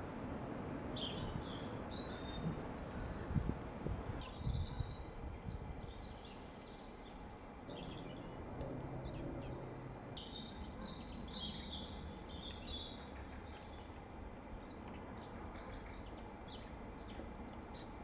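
Small garden birds chirping and calling in short scattered notes and trills, busiest about ten to thirteen seconds in, over a steady low outdoor rumble. A few dull low thumps sound around three to five seconds in.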